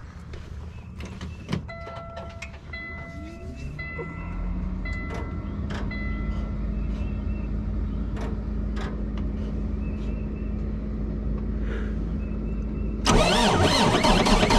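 Dump truck being started: the dashboard warning chime beeps in short repeated tones, and the engine catches about four seconds in with a rising whine, then settles into a steady idle. Near the end a much louder rushing noise comes in suddenly.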